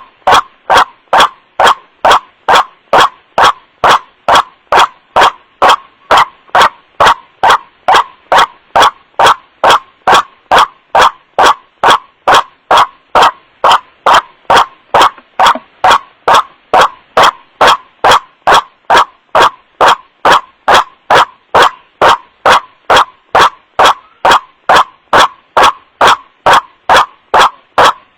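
White-breasted waterhen's 'wak-wak' call, repeated as a lure call at an even pace of about two calls a second. It is boosted until it clips, so each call peaks at full scale and sounds harsh.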